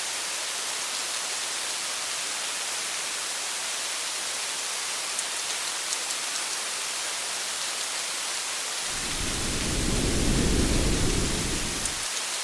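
Steady rain hiss with a few faint drop ticks. A roll of thunder rumbles in about nine seconds in and fades after about three seconds.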